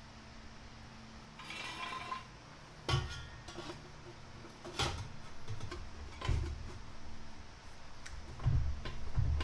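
Scattered metallic clanks and knocks, with a short scraping rattle about two seconds in, from steel 3-inch exhaust pipe sections being handled and fitted up under the car.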